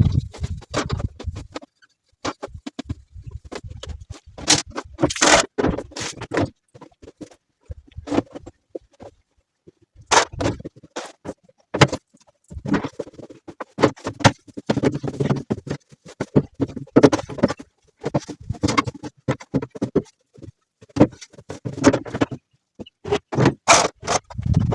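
Irregular scraping, knocking and clattering from cleaning work on a refrigerator, in short uneven bursts with brief pauses between.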